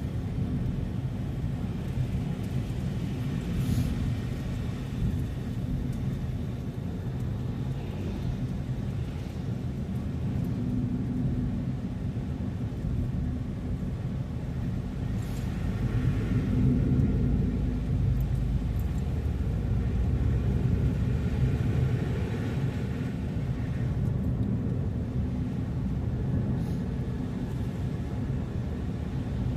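A car driving along: steady engine and road rumble, swelling a little louder about halfway through.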